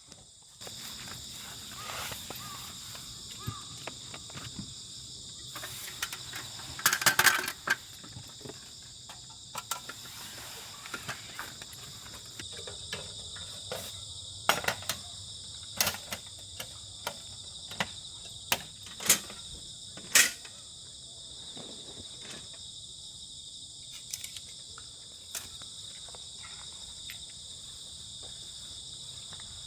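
Crickets chirring in a steady chorus that comes in about half a second in, with scattered sharp clicks and knocks over it, the loudest a quick cluster about seven seconds in and another about twenty seconds in.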